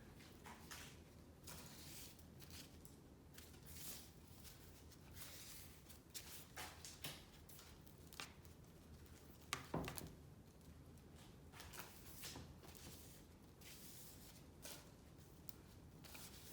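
Faint handling noises: scattered light clicks and rustles of small parts being moved, with one sharper knock about ten seconds in.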